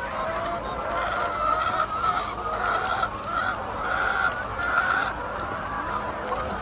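A flock of hens calling, many short calls overlapping without a break.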